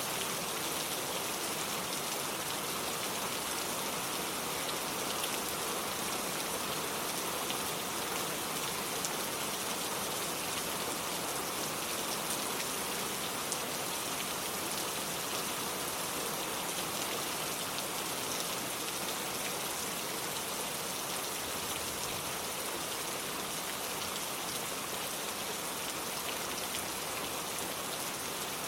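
Steady rain falling on a street and its surfaces, an even hiss with scattered individual drops ticking through it.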